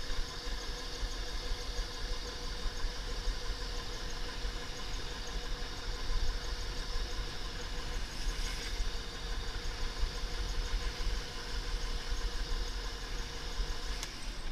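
Razor MX500 electric dirt bike's motor whining at a steady pitch while riding, over a constant low rumble. The whine stops just before the end with a click.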